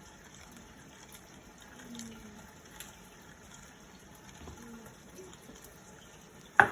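Cornstarch-coated chicken pieces sizzling steadily in hot oil in a frying pan, with one sharp knock near the end.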